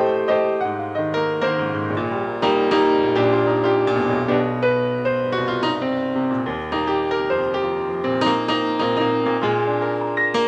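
Solo piano playing an instrumental interlude of chords and melody between sung verses of a ballad.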